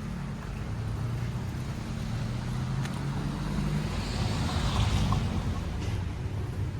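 A motor engine running with a steady low hum, while a rushing hiss swells and fades about four to five seconds in.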